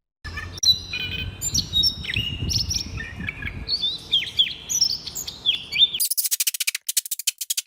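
Several small birds chirping and calling with short whistled notes, many sweeping downward, over a low background rumble. About six seconds in, this cuts to a fast, high-pitched rattling trill of evenly spaced clicks.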